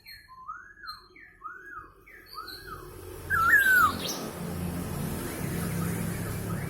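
Poksay Hongkong (masked laughingthrush) calling: three arched whistled notes about a second apart, then a louder slurred note that falls away. A low steady hum comes in about halfway through.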